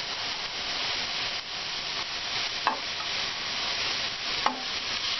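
Chopped vegetables sizzling steadily in a little hot oil in a non-stick wok as they are scraped in from a plate with a silicone spatula. Two short knocks of the spatula come about a third of the way in and again near the end.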